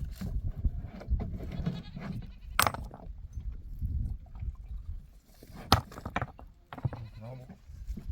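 Sheep or goats bleating in short calls over a low rumble, with two sharp knocks about three seconds apart.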